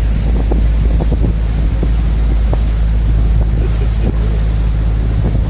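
Canal tour boat's motor running steadily under way, a constant low hum, with wind rumbling on the microphone.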